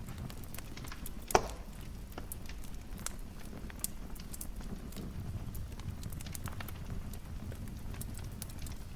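Wood fire crackling in a fireplace: scattered sharp pops and snaps over a low, steady rumble of the flames, with one much louder pop about a second and a half in.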